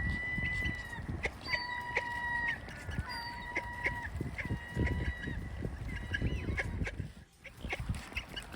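Waterbirds calling with a run of thin, high, drawn-out whistling calls, one after another, over a steady rumble of wind on the microphone.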